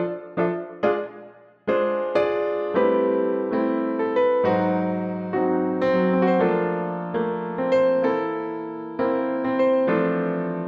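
Slow jazz played on a piano with an electric-piano tone. A few short, clipped chords open it, then fuller chords ring out and fade into one another.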